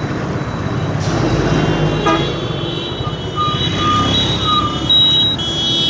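Motorbike running at road speed among traffic, with a vehicle horn tooting a few short times from about halfway through, over steady high horn-like tones.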